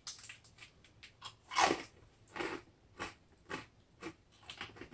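Crunchy salty snack being chewed close to the microphone: irregular crisp crunches, about two a second, the loudest about one and a half seconds in.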